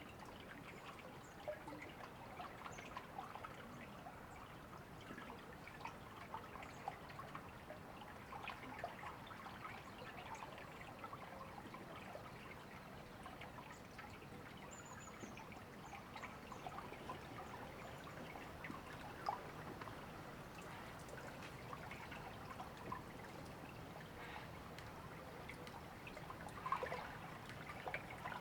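A river or stream trickling and babbling steadily, with a louder gurgle or two. Now and then a bird gives a faint high chirp.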